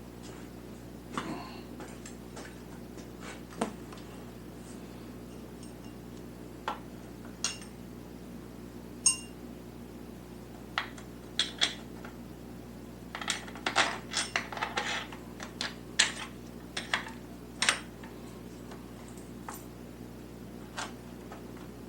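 Scattered metallic clinks and taps of a steel engine mount bolt and tools against the motorcycle's frame and mount brackets as the bolt is worked through, with a busier flurry of clinks a little past the middle.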